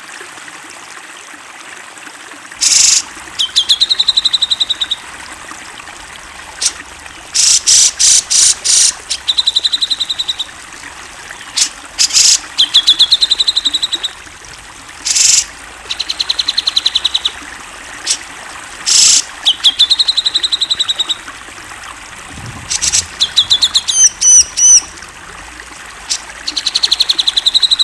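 Cucak jenggot (grey-cheeked bulbul) singing loud repeated phrases every few seconds, each a short harsh note followed by a fast, even trill. Some phrases are a run of rising whistled notes instead. A steady trickle of running water underlies the whole recording.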